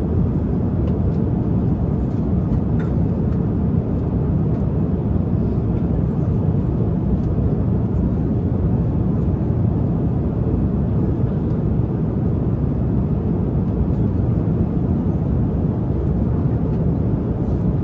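Steady low rumble of a jet airliner cabin in flight, engine and airflow noise running at an even level.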